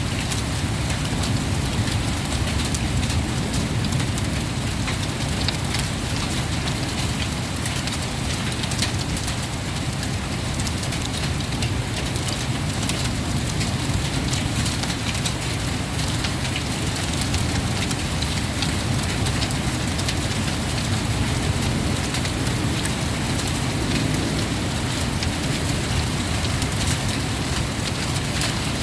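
Heavy rain of a thunderstorm pouring steadily, with many small sharp taps of drops striking nearby surfaces and a steady low rumble underneath.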